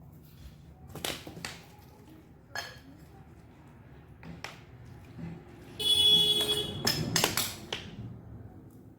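Metal tools and engine parts being handled: a few separate clicks and taps, then a loud metallic ring about six seconds in, followed by more quick taps.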